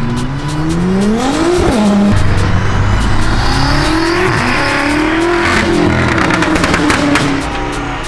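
Car engine revving hard and accelerating, its pitch climbing and then dropping sharply at each upshift, with several quick shifts in a row in the middle.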